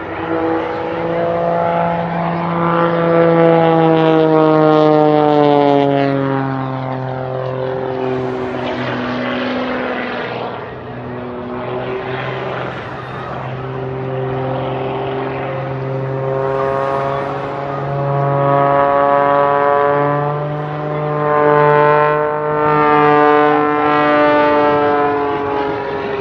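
Single-engine propeller aerobatic plane flying a display, its engine drone sliding down in pitch then climbing again several times as it passes and maneuvers.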